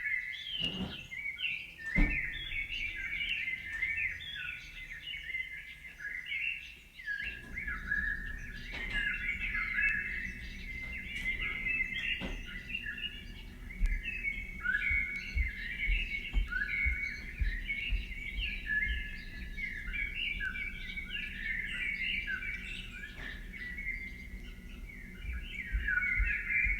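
Many small birds chirping together in a dense, continuous chorus of short, high calls, with a low rumble beneath from about a quarter of the way in.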